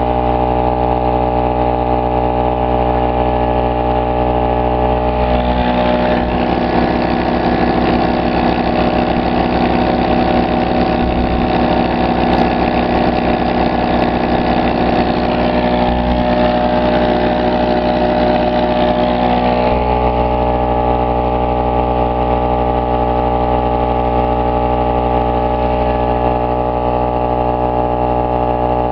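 Pulsar PG1202S 72cc two-stroke generator engine running steadily under the load of an electric air compressor, struggling to drive it. From about six seconds in until about twenty seconds a harsher, fuller layer with a fast pulse joins, then the sound settles back to the steady running.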